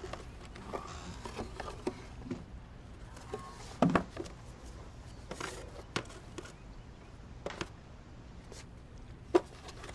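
Quiet indoor room tone with scattered small knocks and clicks, the loudest about four seconds in and another shortly before the end.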